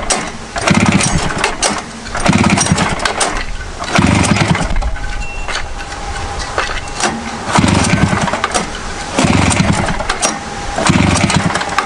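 1973 Rupp 440 two-stroke snowmobile engine being pull-started about six times: each pull turns it over with a quick, chugging burst of compression strokes, and it never fires. It fails to catch on a cold start, which the owner puts down to fuel or spark trouble.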